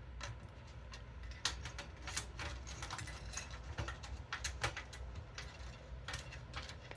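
Irregular small clicks and taps of hardware being handled and screwed into a computer case, over a steady low hum.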